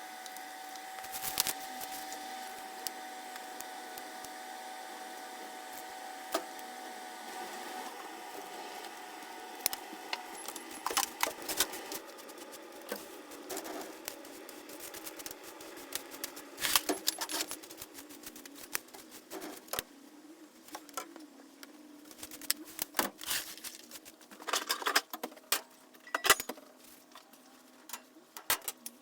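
Irregular clicks, taps and crackles of a wood fire being made in a fireplace, coming in clusters from about ten seconds in. A faint steady tone sounds through the first ten seconds.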